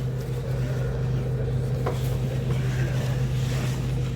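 City bus running steadily, heard from inside the cabin: a constant low engine hum with road noise above it.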